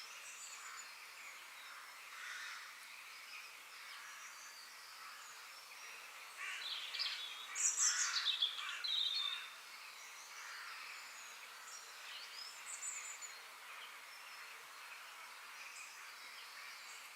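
Forest ambience: songbirds chirping and calling over a steady hiss, with a louder burst of calls in the middle.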